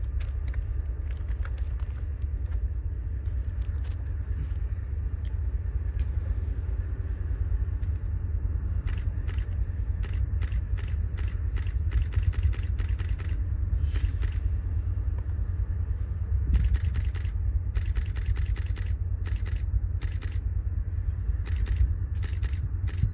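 Low, steady rumble of a distant freight train rolling along a hillside, with a scatter of short clicks from about nine seconds in.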